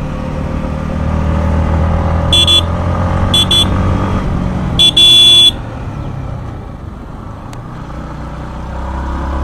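Yamaha MT-15's 155 cc single-cylinder engine pulling uphill under throttle, while a horn is sounded three times: two short toots, then a longer, louder blast about five seconds in. The engine then eases off and picks up again near the end.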